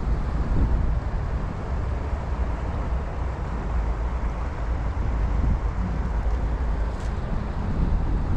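Steady low wind rumble on the microphone over the rush of river water.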